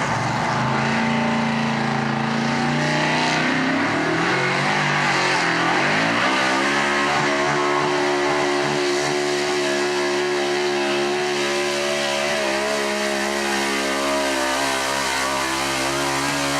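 4x4 truck engine running, its revs climbing about five seconds in and then held steady at high rpm.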